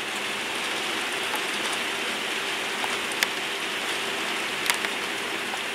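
Heavy rain pouring steadily, with a few sharp ticks of drops striking a nearby surface.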